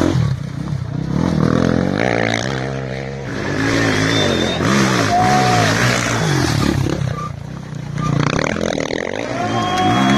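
Rally raid motorcycle engines revving hard and changing gear, the pitch rising and falling again and again and the sound swelling and easing as the bikes go by.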